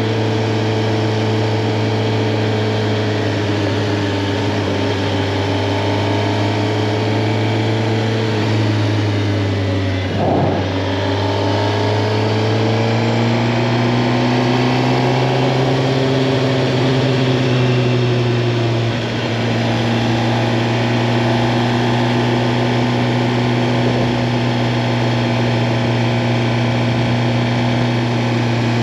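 Suzuki GSX-R 750's inline-four engine running steadily on the move over a steady hiss. The revs dip briefly and come back about ten seconds in, climb slowly after that, and fall a little near twenty seconds.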